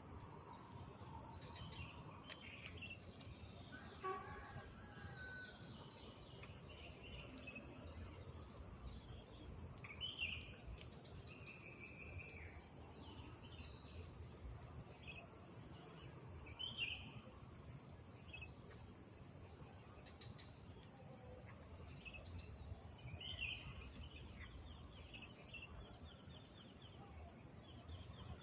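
Faint rural morning ambience: a steady high chirring of insects, with scattered short bird chirps and calls. A few calls stand out, about 4, 10, 17 and 23 seconds in.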